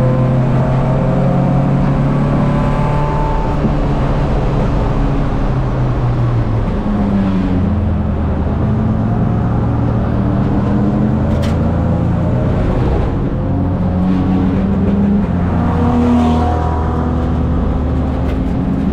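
Race car engine running hard on track, loud and continuous. Its pitch falls about seven seconds in, then holds and climbs again.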